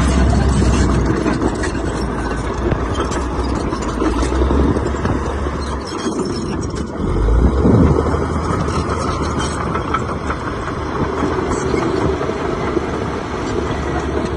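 Heavy diesel engine of earthmoving machinery running with a steady low drone. The engine note dips about six seconds in, then swells back up a second later.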